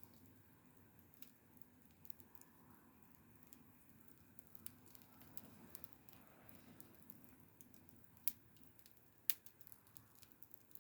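Wood fire crackling faintly, with scattered irregular ticks and two sharper pops near the end.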